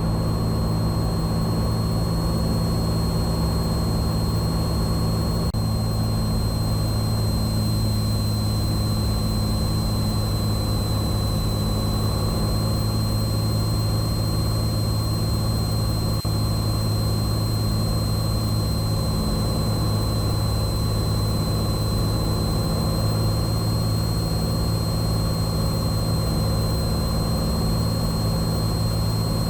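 Cabin drone of a Cessna 182T's six-cylinder Lycoming engine and propeller holding a steady approach power setting on final. A thin, steady high-pitched whine sits above the drone.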